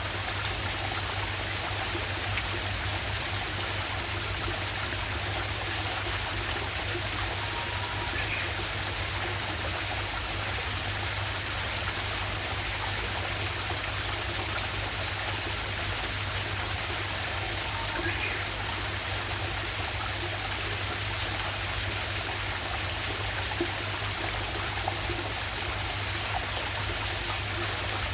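Water of a small waterfall and stream rushing and splashing steadily over rocks.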